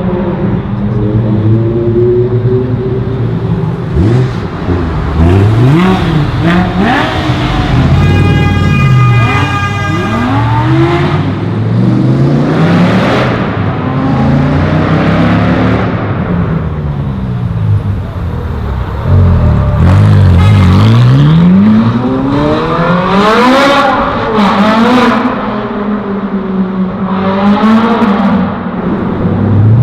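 Performance cars accelerating hard away one after another, engines revving up through the gears with pitch drops at each shift and passing the microphone. A steady high tone sounds for about two seconds roughly a quarter of the way in.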